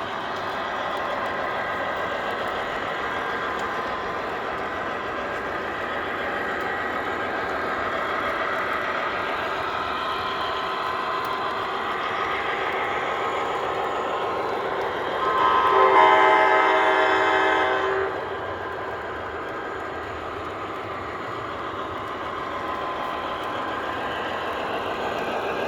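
MTH model diesel locomotives' onboard digital sound systems: diesel engine sound running steadily, with one horn blast of about three seconds some fifteen seconds in.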